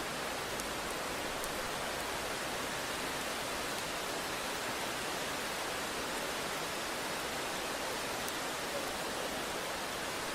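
Steady rain, an even hiss with a few faint drop ticks and no thunder.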